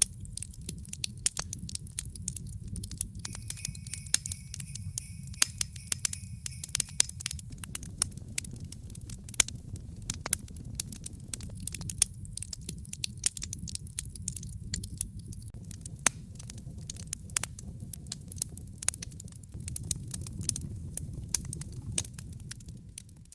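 Wood fire in a fireplace crackling, with frequent sharp pops and snaps of varying loudness over a steady low rumble.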